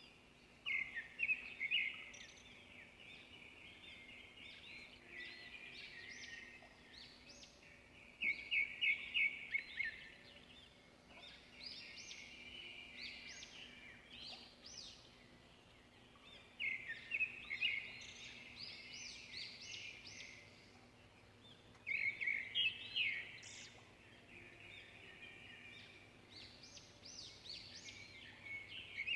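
A bird chirping in short bursts of quick, high notes that come again every few seconds, over a faint steady hum.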